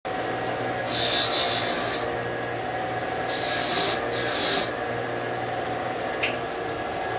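Three short rasping strokes, rubbing across a surface, over a steady low hum, with one sharp click about six seconds in.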